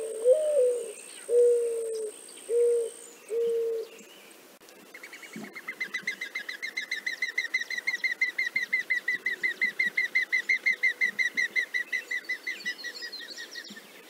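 Mourning dove song: a rising, drawn-out coo followed by three shorter, lower coos. About a second later comes a long run of rapid whistled pulses, about six or seven a second, swelling and then fading: the wing whistle of a mourning dove in flight.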